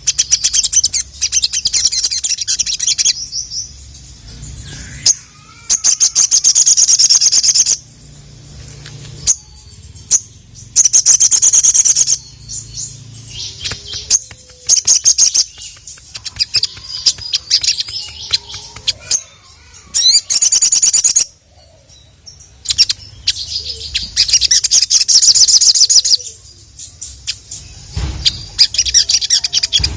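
Sogon (ruby-cheeked sunbird) singing in full song: repeated bursts of rapid, high-pitched trills, each lasting one to three seconds, separated by brief pauses.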